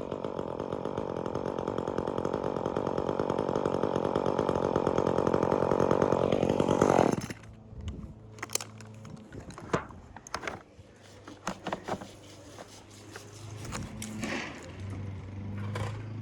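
Chainsaw cutting into dead birch, running at full throttle and growing steadily louder for about seven seconds, then stopping abruptly. After it come a few sharp knocks and clicks, and near the end a low steady hum.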